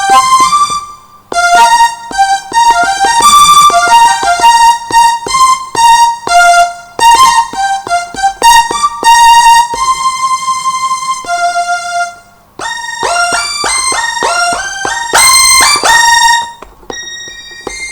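Roland M-DC1 sound module playing a bright, bell-like keyboard patch in short melodic phrases, with a quicker run of notes in the second half, each note started by the tap of a pad on the controller.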